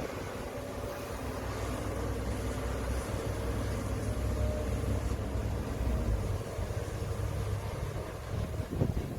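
Diesel engine of heavy earthmoving machinery running, a steady low drone that grows a little louder through the middle and eases near the end.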